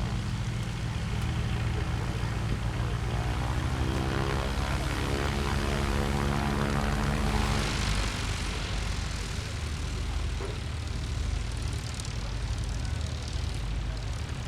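A light propeller aircraft's piston engine passing close by, growing louder to a peak about halfway through and then fading away.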